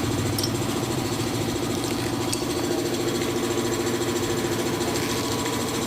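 A motor running steadily at a constant speed, a low even hum.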